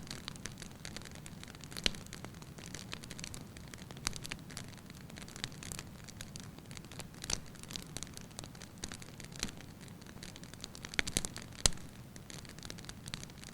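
Wood fire burning in a fireplace, crackling and popping over a steady low hiss, with a louder pop about two seconds in and a burst of sharper pops near the end.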